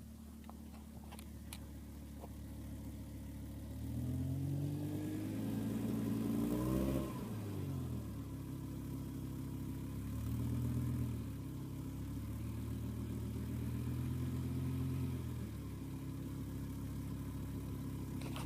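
BMW M6's S85 V10 engine idling, then revved: the pitch climbs about four seconds in to a peak near seven seconds, falls back, rises again near ten seconds and is held raised for a few seconds before dropping back to idle. A steady high whine sits over the engine note, a fault the owner says is not the usual VANOS rattle.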